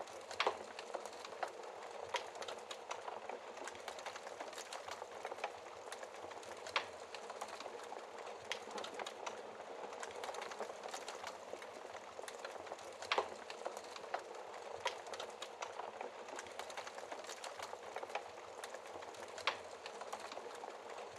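Wood fire burning in a fireplace: a steady fine crackle with frequent small pops and a few sharper snaps spaced several seconds apart.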